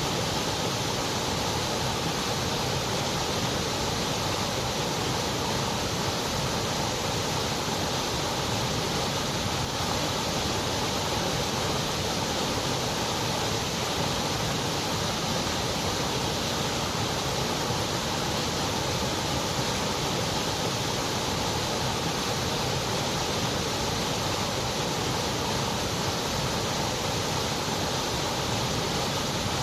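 Continuous white noise: an even, unchanging hiss with no rhythm, pitch or breaks.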